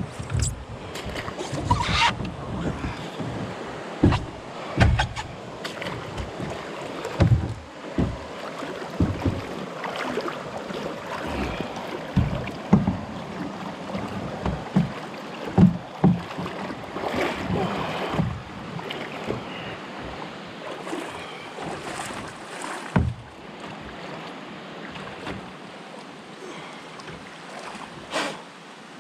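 Canoe being paddled: irregular paddle strokes splashing and knocking against the hull, over a steady wash of water and wind.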